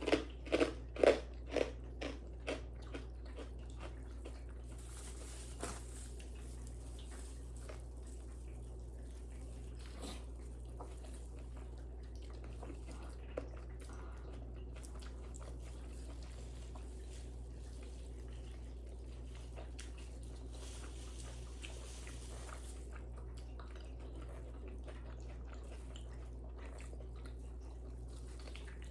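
Close-miked eating: a quick run of loud crunchy bites and chewing in the first few seconds, then only faint chewing sounds over a steady low hum.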